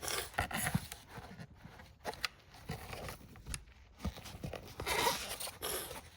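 Plastic tab scraping and clicking as it is slid out of a First Alert smoke and carbon monoxide alarm. The scrapes are short and irregular, with a longer scrape near the end.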